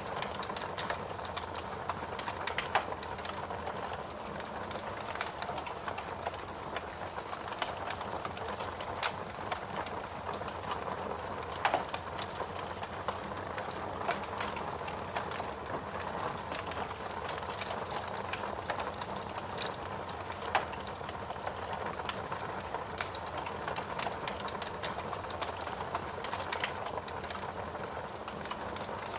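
Log fire in a fireplace crackling steadily: a constant hiss of burning wood dotted with many small crackles, plus a few sharper, louder pops.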